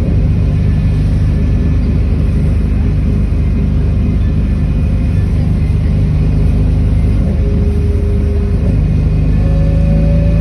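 City bus engine running under way, heard from inside the cabin: a loud, steady low rumble, with a faint tone that starts to rise near the end.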